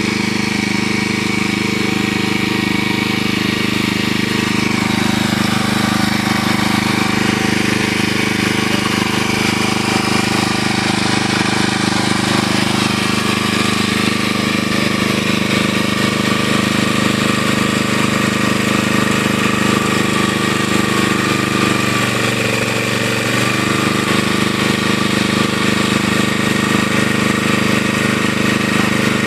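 An engine running steadily, its note changing briefly about three-quarters of the way through.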